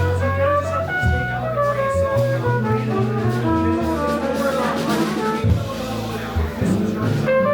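Live jazz band playing, with brass horn lines over a drum kit.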